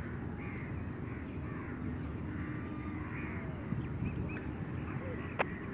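Several short bird calls, spaced about a second apart, over a steady low rumble.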